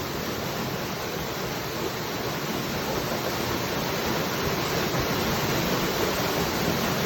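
Waterfall: water falling and splashing in a steady, even rush, growing slightly louder about halfway through.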